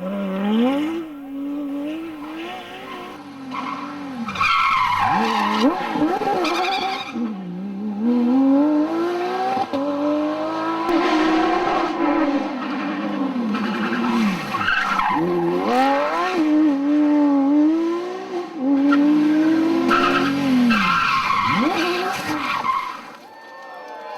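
Porsche 911 GT3 RS rally car's flat-six engine driven hard, its revs climbing and falling again and again as it shifts and lifts off between bends.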